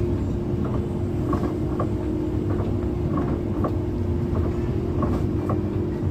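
Steady drone of a moving coach bus heard from inside the cabin: engine and road rumble with a constant hum and light, irregular rattling clicks.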